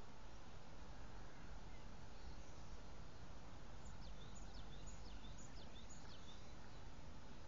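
A bird calling: a quick run of about five short, high notes, each falling in pitch, roughly two a second, starting about halfway through. Underneath is a steady background noise.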